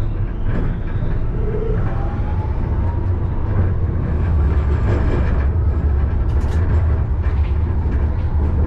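Alstom Citadis tram running on its rails, heard from inside the driver's cab as a steady low rumble. A faint rising motor whine climbs through the first few seconds.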